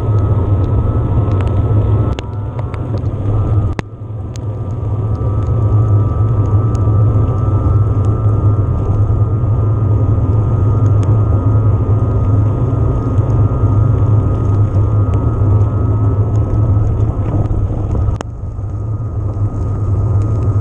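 Ride noise from an electric mountain bike on a trail: a loud, steady rumble of wind and tyres on the camera microphone, with scattered sharp ticks. The noise drops away briefly a few times, about two and four seconds in and again near the end.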